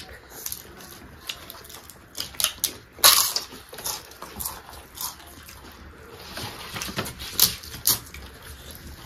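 Several people eating rice and chicken gizzard with their hands: irregular wet chewing and lip-smacking, loudest about three seconds in.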